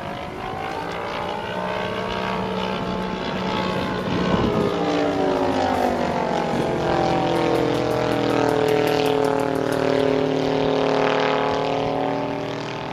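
Propeller aerobatic aircraft engine droning overhead, its pitch sliding down and then back up as the plane manoeuvres and passes, louder in the middle.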